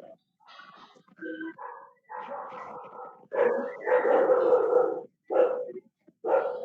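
A dog barking several times, loudest in the middle, with two short barks near the end.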